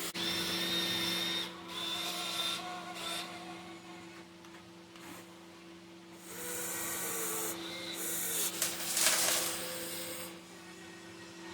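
Small electric motors of a 1:14-scale RC excavator whirring in bursts of one to two seconds, with quieter gaps between, over a steady low hum.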